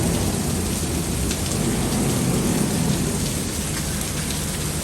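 Heavy rain pouring down: a dense, steady hiss with scattered drop hits, over a low rumble.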